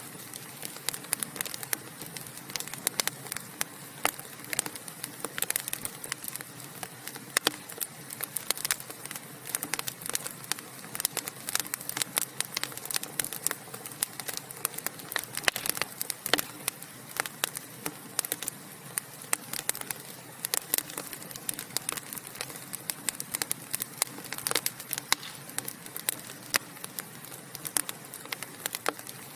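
Wood fire burning in a fireplace, crackling and popping irregularly over a steady hiss.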